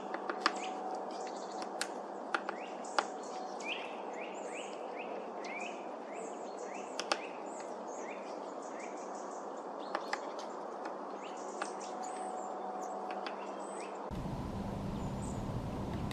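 Outdoor birdsong: many short, repeated falling chirps and higher twittering, with scattered sharp clicks. A lower rumble of background noise comes in near the end.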